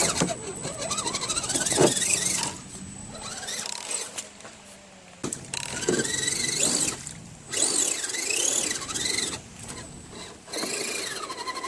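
Redcat Gen7 RC crawler's electric motor and gear drivetrain whining in several throttle bursts, the pitch rising and falling, with short pauses between.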